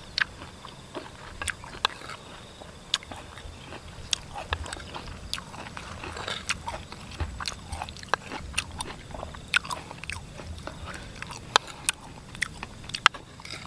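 Close-up eating sounds: a person chewing pickled rambutan flesh in a chili-lemon brine, with many sharp, irregular wet clicks and smacks.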